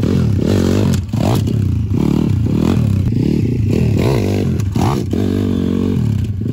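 Pit bike's YX 180cc single-cylinder four-stroke engine running, its throttle blipped so the revs rise and fall about twice a second.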